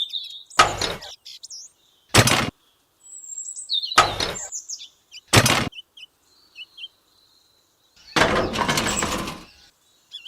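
Small birds chirping and whistling in the background, broken by four short, sharp knocks spaced a second or two apart and a longer clattering burst near the end.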